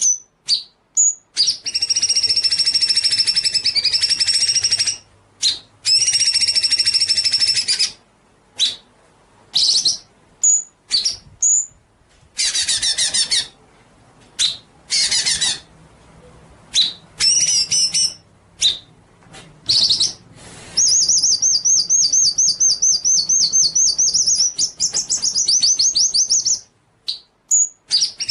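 A songbird singing loudly: short high whistled notes between fast trilled phrases, ending in a long rapid trill of about six seconds.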